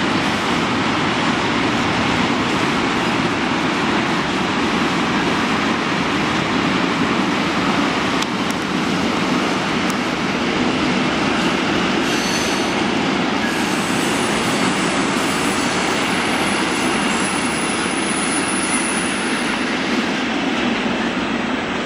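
A long freight train of tank wagons rolling past close by, with a steady rumble and clatter of wheels on rail. Faint high wheel squeals come in during the second half.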